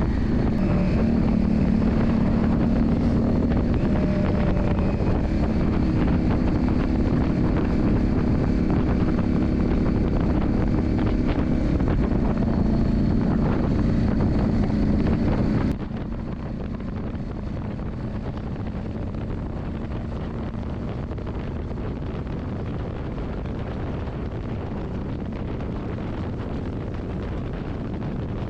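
Yamaha Drag Star 400's V-twin engine running steadily, with wind noise on the microphone. About halfway through, the sound drops suddenly to a quieter engine hum under wind hiss.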